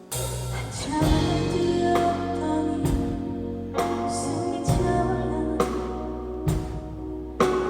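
Live band music over a concert sound system: sustained keyboard and bass notes with a drum hit about once a second, and some singing.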